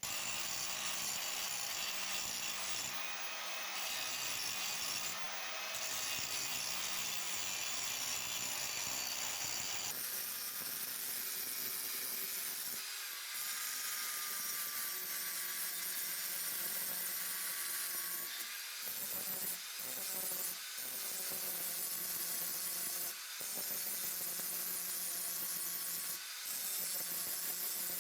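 Electric power tool grinding on metal: a steady abrasive hiss with a faint motor hum beneath. It changes character abruptly about ten seconds in and breaks off briefly several times later.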